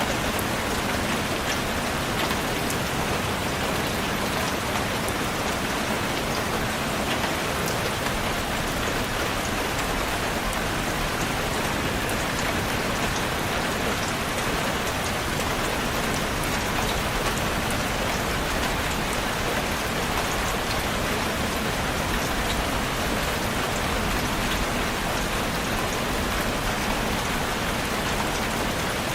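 Steady rain falling on a surface, a constant even hiss with many fine individual drop patters and no change in intensity.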